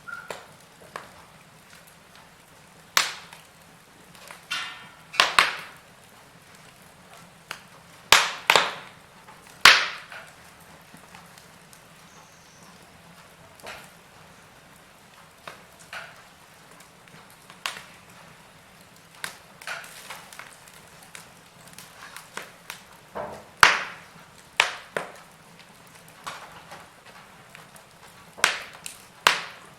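Wood fire crackling in a fireplace: irregular sharp pops and snaps, some coming in quick clusters, over a faint steady hiss. The loudest snaps fall about a third of the way in and again near the end.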